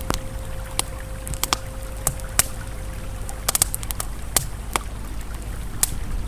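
Campfire crackling with sharp, irregular pops over the steady low rush of a flowing river. A soft held ambient tone sounds until about halfway through.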